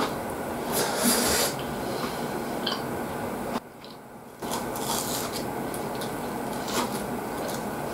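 Close-up chewing of a breaded, deep-fried croquette: irregular crisp, rasping crunches of the fried crust, with a short lull about halfway through.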